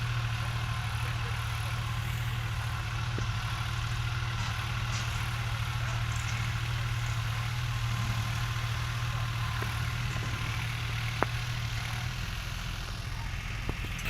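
New Holland 3600-2 tractor's diesel engine running at a steady low drone, with one sharp click about eleven seconds in.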